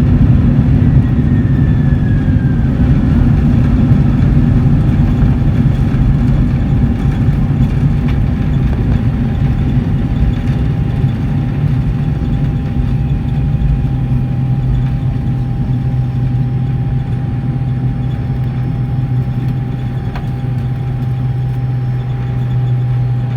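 Cabin noise of a Boeing 747-400 on its landing rollout: a loud, deep rumble of engines and wheels that slowly eases off as the jet slows down. A faint falling whistle sounds near the start.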